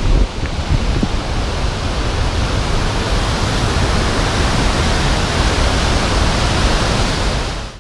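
Steady roar of water pouring over a dam and rushing downstream, a dense unbroken rush that cuts off abruptly at the very end.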